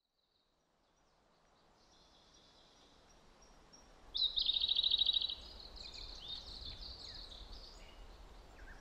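Birds singing over a faint outdoor background hiss, fading in from silence. About four seconds in, one bird gives a loud, rapid trill lasting about a second, and scattered chirps continue after it.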